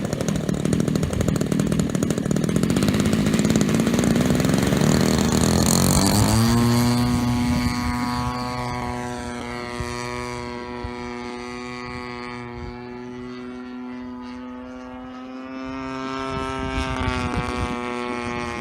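35cc Evolution two-stroke petrol engine and propeller of a large radio-control Spitfire model: loud with a rising pitch for the first six seconds, then settling into a steady, quieter drone that swells slightly near the end.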